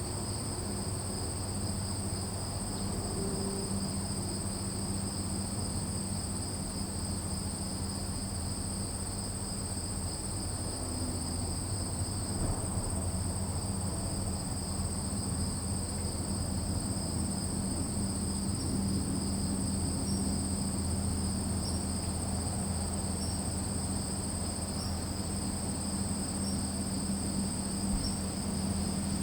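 Crickets trilling without a break at two high pitches, over a low steady hum.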